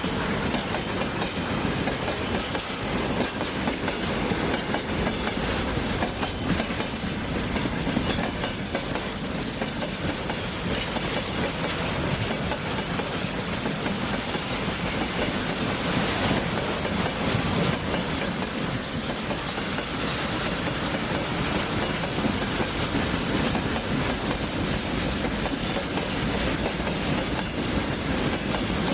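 Train running along the track: a steady rumble with a continuous patter of wheel clicks on the rails.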